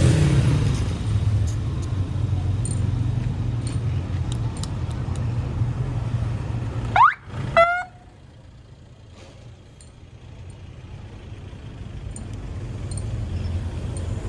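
Motorbike engine and street traffic running steadily. About seven seconds in come two short, loud pitched sounds, the first rising in pitch. After them the engine noise drops away and slowly builds again near the end.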